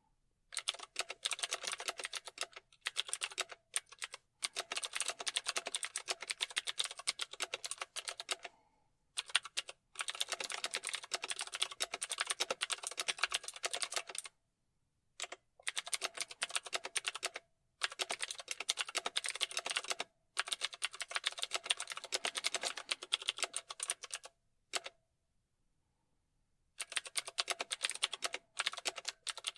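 Typing on a computer keyboard: rapid key clicks in runs of a few seconds, broken by short pauses, the longest about two and a half seconds near the end.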